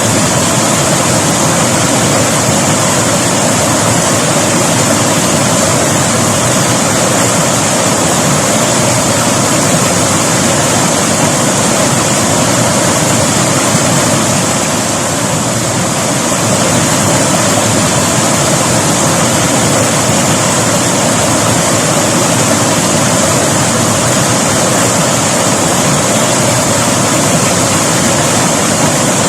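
River water rushing steadily, a loud even wash of noise that eases slightly for a moment about halfway through.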